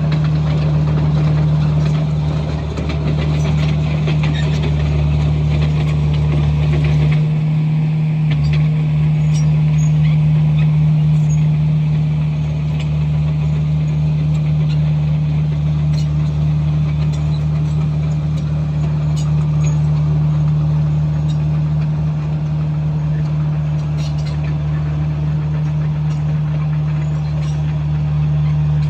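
Komatsu bulldozer's diesel engine running steadily under work, a loud continuous drone with faint clicks over it; its deepest tone wavers and drops about seven seconds in.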